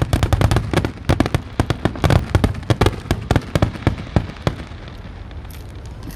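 Fireworks going off in a rapid barrage of cracks and booms, several a second, thinning out after about four and a half seconds.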